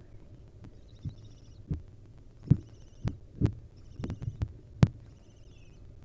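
A series of irregular dull thumps and knocks, about eight in all, two of them louder, with faint twittering of small birds in the background.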